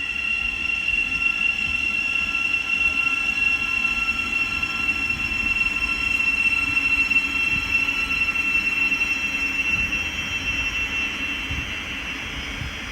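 A Thameslink Class 700 electric multiple unit running at the station, with a steady high-pitched electric whine over a low rumble that eases a little near the end.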